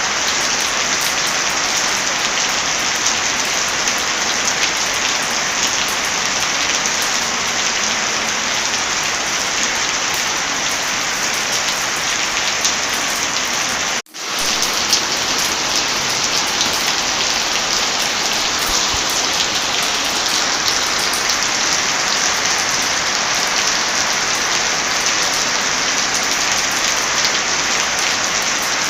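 Heavy rain falling steadily, with scattered small clicks from a crackling fireplace mixed in. The sound cuts out for a split second about halfway through, then returns.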